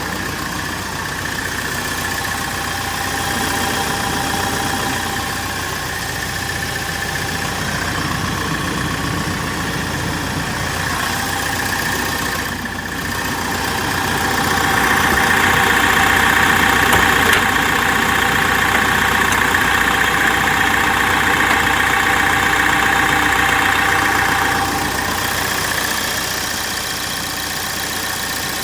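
Isuzu Elf truck's engine running steadily at idle. It grows louder about halfway through and settles back near the end.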